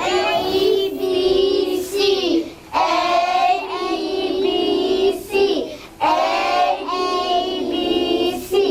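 Young children singing a song together, in phrases of two or three seconds with short breaks between them.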